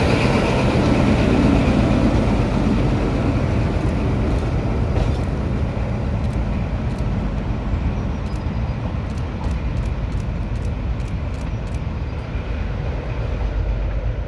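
Diesel train engine running with a steady low rumble, loudest at first and slowly fading as it draws away. A run of faint sharp ticks comes through in the middle.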